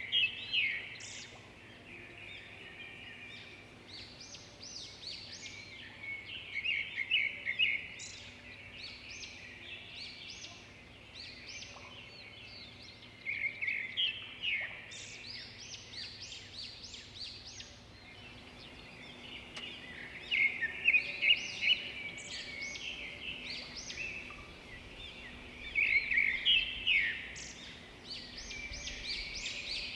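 Several small birds chirping and singing together, with louder bursts of rapid chirps and trills about every six or seven seconds, over a faint steady hum.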